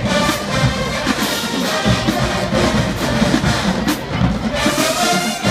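Marching band brass and drums playing a loud, full-band passage.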